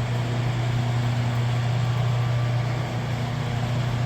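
Steady drone inside a moving vehicle: a constant low hum over an even hiss, with no change in pitch.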